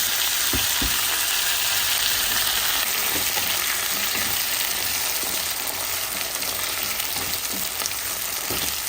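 Chopped potatoes frying in hot oil in a pan, sizzling steadily; the sizzle eases a little about three seconds in.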